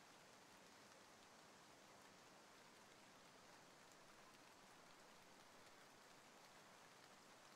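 Faint, steady rain falling: an even hiss with no distinct drops or pauses.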